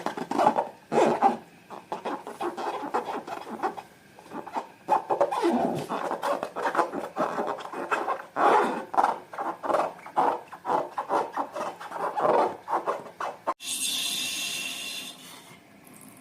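Slime being squished and worked by hand: a dense, uneven run of sticky clicks and squelches. Near the end it cuts abruptly to a steady hiss.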